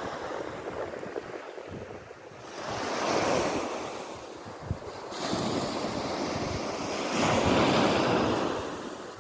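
Sea waves washing onto the shore, surging three times with the last the loudest, with wind buffeting the microphone.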